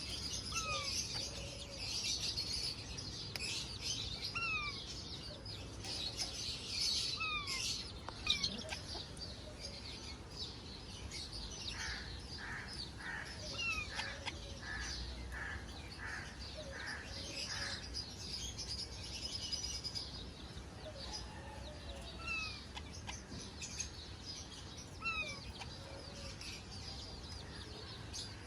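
A flock of parrots chattering and chirping continuously, with short falling whistles every few seconds and, about halfway through, a run of about eight evenly spaced calls at roughly one a second or faster.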